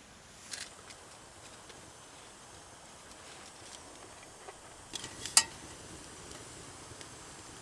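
A few sharp knocks and clicks over a faint steady background: one about half a second in, then a cluster about five seconds in, the loudest with a brief ringing tone.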